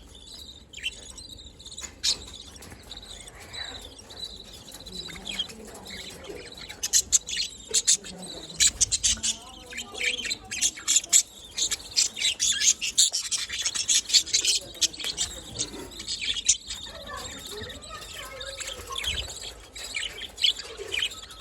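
Budgerigars chirping: a stream of quick, high chirps, busiest and loudest in the middle stretch.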